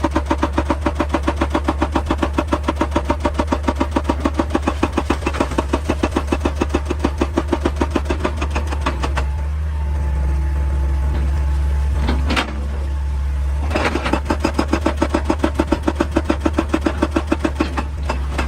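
Excavator-mounted hydraulic rock breaker hammering in rapid, regular blows over the steady low drone of the machine's diesel engine. The hammering stops about halfway through, leaving the engine running with one sharp knock, then starts again and pauses briefly near the end.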